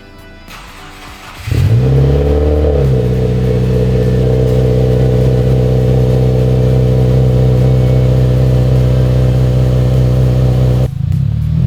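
Subaru WRX's turbocharged flat-four engine flares up in revs about one and a half seconds in, drops back, and then runs at a steady idle. Near the end it revs up and down again.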